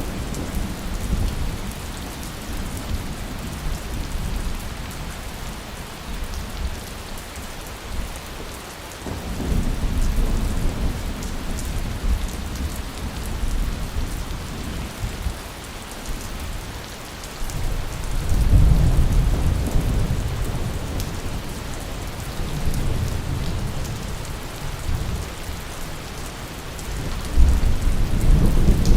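Steady rain from a thunderstorm, with rolls of thunder rumbling low several times: about nine seconds in, more loudly around eighteen seconds, and again near the end.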